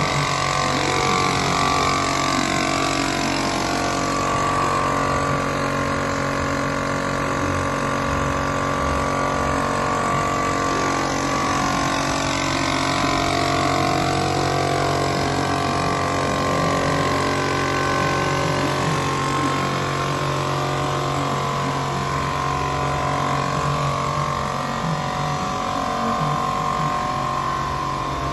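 Levigaltecnica SRRN 1100 Mikro wide belt sander, a 19 kW machine, running steadily: a constant mechanical hum with several steady tones under an even rushing noise.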